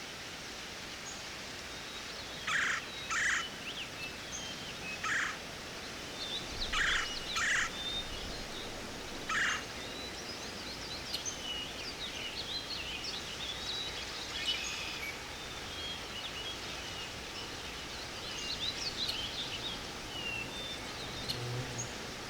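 Wild birds calling: a run of short, harsh calls, mostly in pairs, in the first ten seconds, then the quick, thin chirps and twitters of small songbirds, over a steady outdoor hiss.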